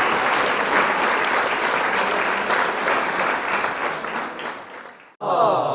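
Crowd applause with dense clapping, fading out near the end. Just before the end a new short effect starts, several tones sliding down in pitch together.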